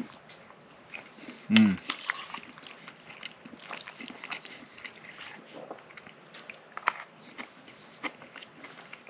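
A person eating: chewing with small clicks and scrapes of a utensil on the plate, and a short voiced sound about a second and a half in.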